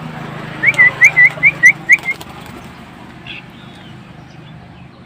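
A bird giving a quick run of about seven short, clear whistled notes, each rising then dipping, about five a second.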